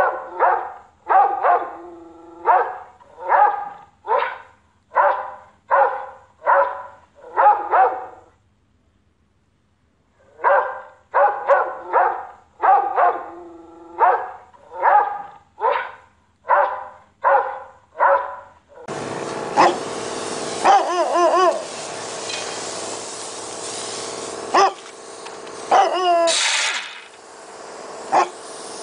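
Old English Sheepdog barking in quick regular succession, a little more than one bark a second, in two runs broken by a pause of about two seconds. About two-thirds of the way through, it gives way to an Alaskan Malamute's wavering, drawn-out howl-like vocalising over background hiss.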